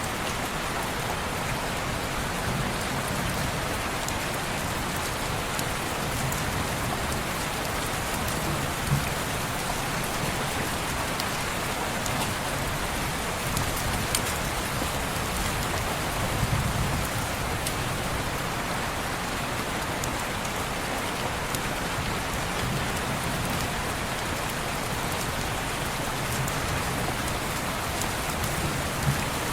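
Steady rain falling on window glass, an even hiss with a few sharp clicks and a soft low rumble about halfway through.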